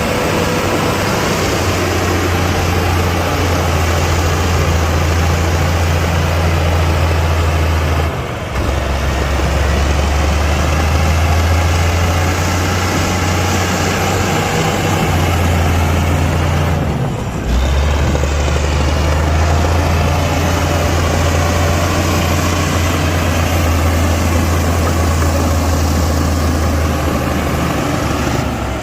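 Heavy diesel earthmoving machinery running, a loud steady low engine drone that briefly dips about 8 and 17 seconds in.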